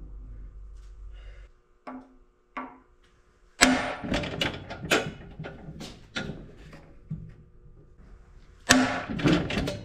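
Hammer blows on metal, knocking cam bearings out of a Caterpillar D4D engine block: two light taps, then a run of sharp ringing strikes about two a second, a brief pause, and another hard run near the end.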